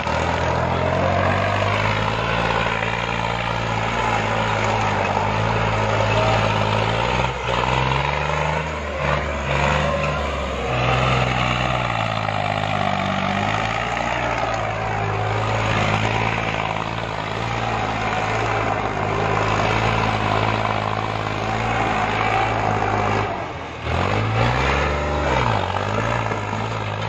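New Holland tractor's diesel engine running hard and steadily, its pitch dipping and recovering a few times and swinging briefly up and down near the end.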